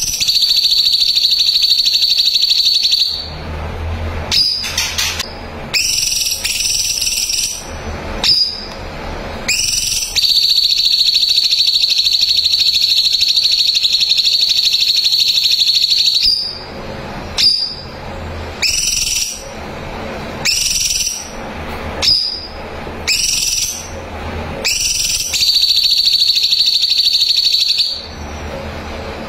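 Cucak cungkok singing a loud, tight rapid-fire trill ('nembak rapat'), held for several seconds at a high pitch three times: right at the start, a long six-second run in the middle and again near the end. Between the trills come short, separate rising calls.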